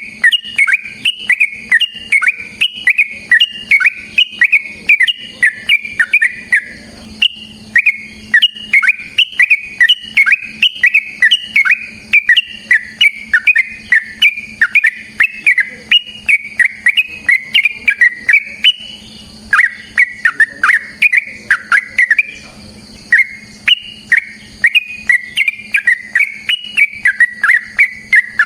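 Yellow-vented bulbul (trucukan) singing a long, fast run of short, loud whistled notes, two to three a second, with two brief breaks.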